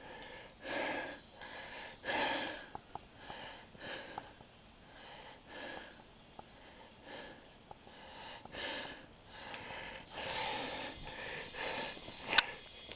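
A mountain biker's heavy breathing while riding, a noisy puff of breath about once a second, with one sharp click near the end.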